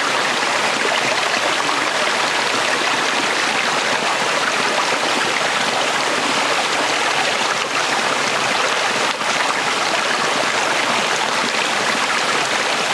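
A small shallow stream flowing over rocks, a steady close babbling of water.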